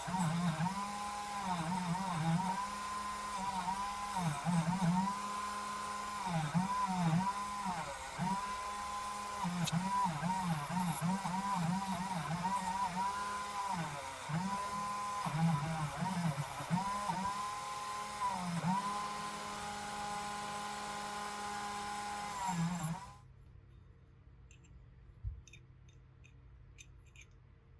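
Small high-speed rotary tool running, its motor pitch dipping again and again as it bears on the work, then switched off about 23 seconds in.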